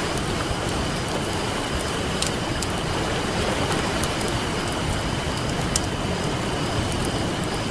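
Campfire crackling with a few sharp pops, the clearest about two seconds in and again near six seconds, over a steady wash of ocean surf.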